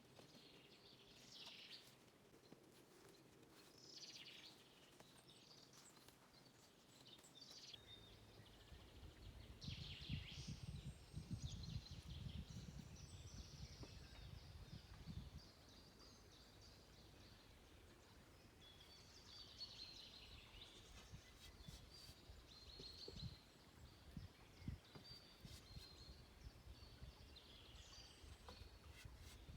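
Faint birdsong, short chirps coming and going throughout. From about eight seconds in there is a low rumble, loudest for a few seconds after it starts, and later a few soft knocks.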